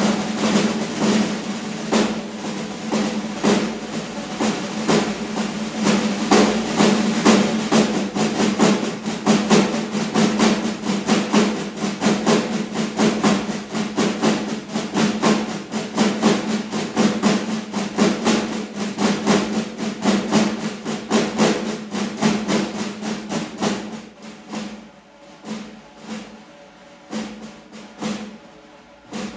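Snare drums played in fast, even strokes and rolls, a train-like rhythm. About 24 seconds in it falls to quieter, sparser strokes.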